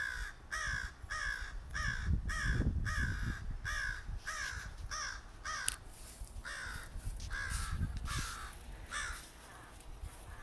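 A group of crows cawing harshly in a rapid series, about two caws a second, thinning out and fading over the last few seconds. The crows are mobbing a raptor.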